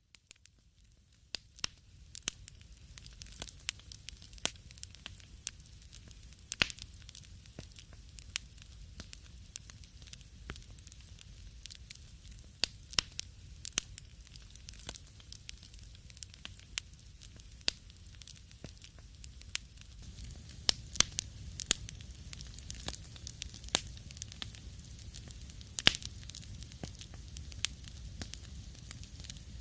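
Wood fire crackling in a fireplace: irregular sharp pops and snaps over a steady low hiss of the flames. It fades in at the start and grows a little louder about twenty seconds in.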